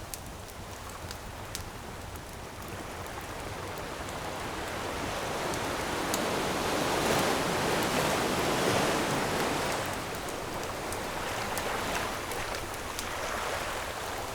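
Ocean surf: a wave swells over a few seconds, peaks about halfway through and recedes, with a smaller wave after it. Scattered sharp pops and crackles of a wood campfire run alongside.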